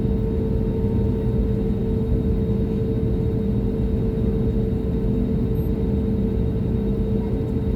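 Steady cabin drone of an Airbus A320: a dense low rumble of engines and airflow with a constant hum running underneath.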